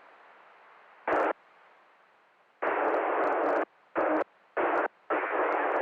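Two-way radio speaker letting through hiss in on-off bursts, the squelch opening and snapping shut: a brief burst about a second in, then four longer bursts from about halfway. Typical of a weak, broken-up transmission.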